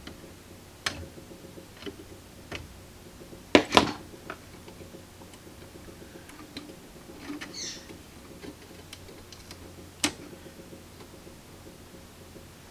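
Scattered small clicks and taps of hand tools and parts being handled on a tube radio chassis during capacitor replacement. A louder double click comes about three and a half seconds in, and a sharp single click near the end, over a faint steady hum.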